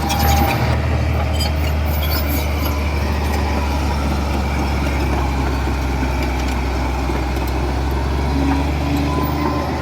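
Heavy diesel engine of earthmoving machinery running steadily at a constant low pitch.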